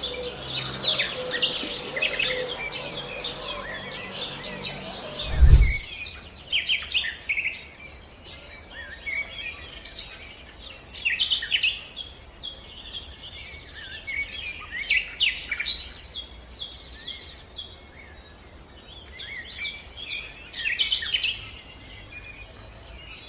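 Many small songbirds singing and chirping, with a single low thump about five and a half seconds in, after which a steady low background hum drops away.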